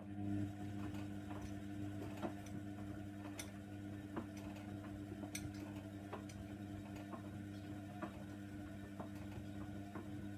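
Hoover Nextra washer dryer's drum motor humming steadily as the drum turns in the wash tumble, with irregular light clicks and taps of the load knocking inside the drum.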